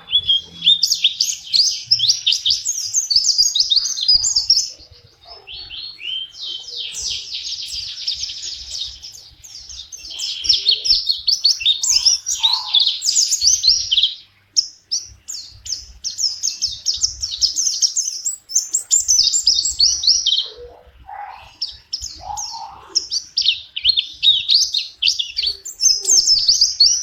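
A pleci (white-eye) singing: long runs of rapid, high-pitched chirping twitters, with short pauses about five, fourteen and twenty seconds in.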